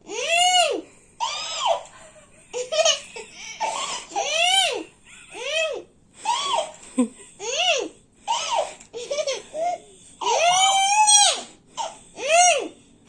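Parrot calling over and over: a dozen or so short squawks that each rise and fall in pitch, about a second apart, with a longer, held one about ten seconds in.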